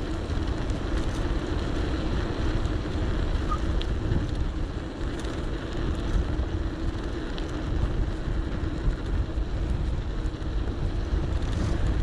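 Wind rumbling on a GoPro's microphone while riding an electric bike, over a steady hum from the moving bike.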